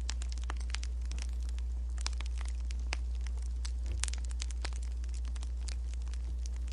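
Wood fire crackling: quick, irregular pops and snaps, one slightly louder about four seconds in, over a steady low rumble.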